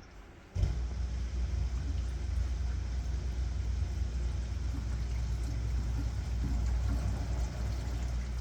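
Dishwasher drain pump switching on suddenly about half a second in and running with a steady low hum as it pumps water out during a drain test.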